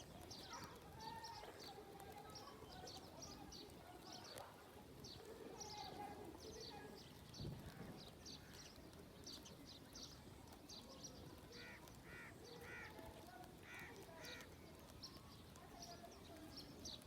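Faint outdoor ambience of small birds chirping repeatedly, with a run of five short calls about twelve seconds in.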